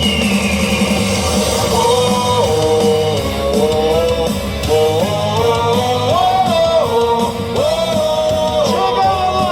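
Rock-style baseball cheer song with electric guitar and drums played loudly over the stadium loudspeakers, its melody moving in steps between held notes, with singing mixed in.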